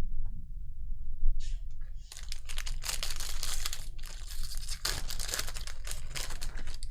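Trading-card pack wrapper being torn open and crinkled by hand. It starts with a few small clicks, then from about two seconds in becomes a dense, continuous crackling rip.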